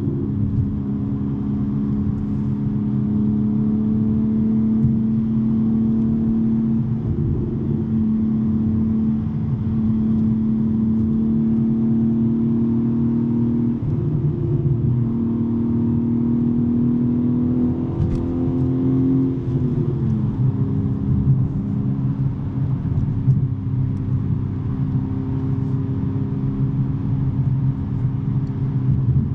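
BMW M3 G80's twin-turbo straight-six (S58) running under steady cruise with a non-resonated J-pipe exhaust drone; the pitch rises gently, then drops and settles lower about two-thirds of the way through.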